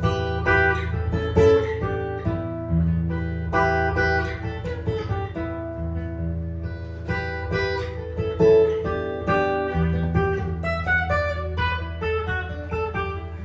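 Improvised jazz guitar playing plucked chords and melody over low bass notes that change every couple of seconds. The notes grow quicker and shorter near the end.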